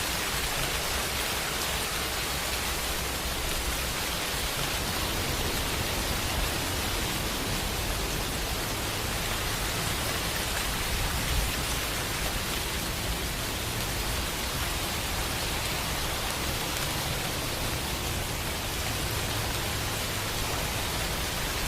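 Steady rain, an even hiss with a low rumble underneath that swells slightly about halfway through.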